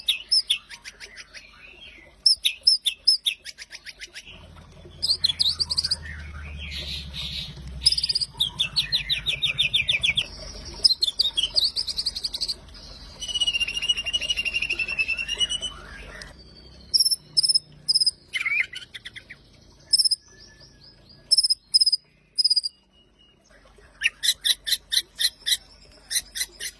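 White-rumped shama (murai batu) in full, vigorous song: a varied run of whistled phrases, fast trills and chattering notes with short pauses, ending in a string of rapid repeated sharp notes.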